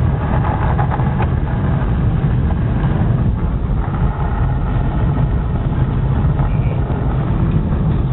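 Car engine and tyre noise heard from inside the cabin while driving on a snowy road: a steady low rumble.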